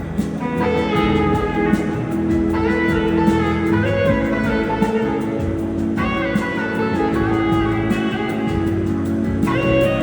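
A live blues-rock band playing a slow song, with an electric guitar lead of long sustained notes over the band's accompaniment.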